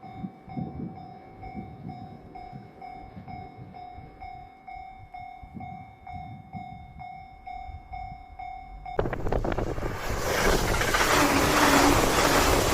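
A Japanese railway level-crossing warning bell ringing in a steady, evenly repeated ding. About nine seconds in, an E259 series Narita Express train suddenly rushes past close by, and the loud noise of its wheels and air swamps the bell and builds toward the end.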